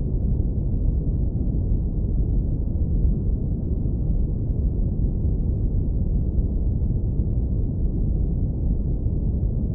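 Steady deep brown noise, filtered down to a low rumble with nothing above the bass and low mids.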